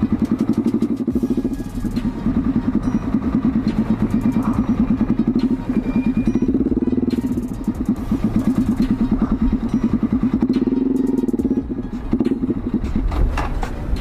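Z200S motorcycle engine running at low speed with a steady, even exhaust beat, the revs swelling briefly twice.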